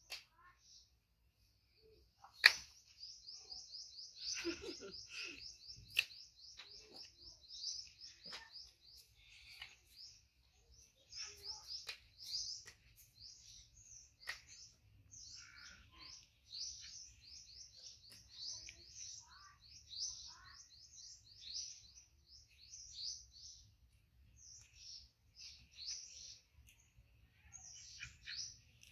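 Small birds chirping rapidly and continuously, a quick run of short high chirps several times a second, with a few sharp clicks, the loudest about two and a half seconds in.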